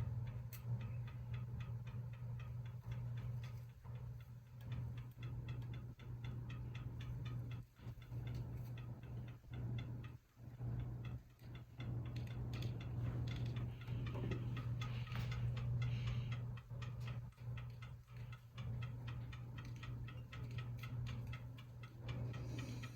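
Hampton Bay Minuet II ceiling fan running, its motor humming steadily, with a rapid, regular ticking over the hum.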